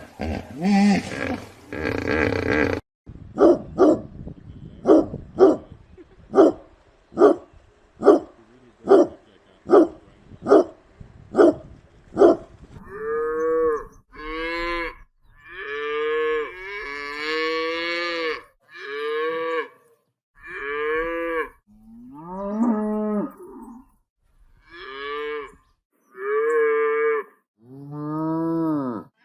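A run of short, evenly spaced animal calls, a little over one a second, followed by cattle mooing over and over, each moo about a second long, the last one lower.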